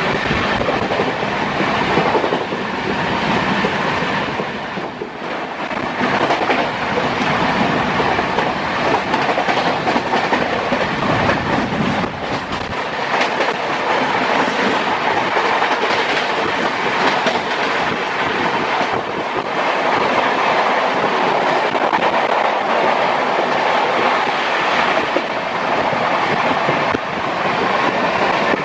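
A passenger train running at speed, heard at an open window: the wheels rumble and clatter steadily over the rail joints. From about the middle, a freight train of covered wagons passes on the next track, adding a continuous rushing clatter.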